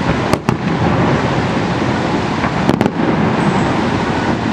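Fireworks display: a dense, continuous crackling with pops, at a steady loud level.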